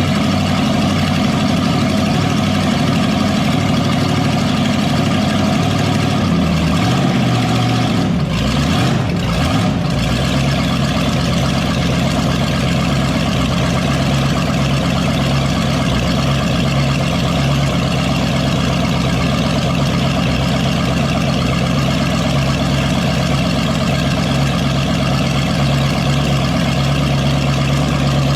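1987 Cadillac Fleetwood Brougham V8 running on an engine run stand with open exhaust, loud and steady. Its speed shifts and drops about eight to ten seconds in, then it settles into an even idle.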